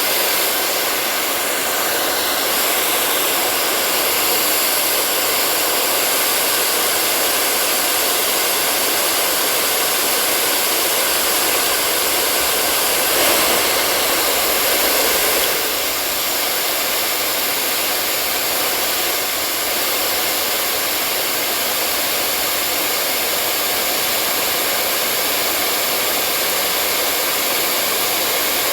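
Hair dryer blowing steadily, a continuous rushing whoosh of air with a faint motor hum, slightly louder for a couple of seconds near the middle.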